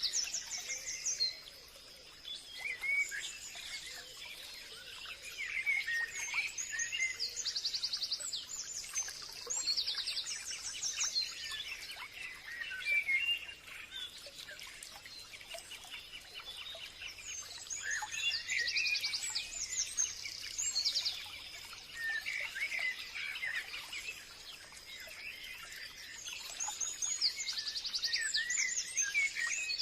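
Several birds singing and calling together in a forest chorus: quick chirps, whistled sweeps and fast repeated trills overlapping throughout.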